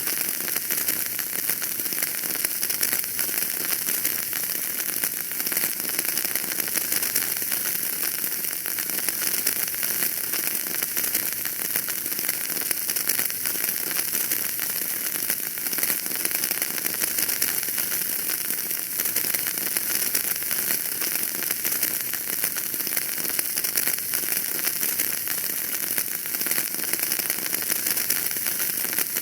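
Wood fire burning in a fireplace, crackling steadily with a dense run of small pops over a constant hiss.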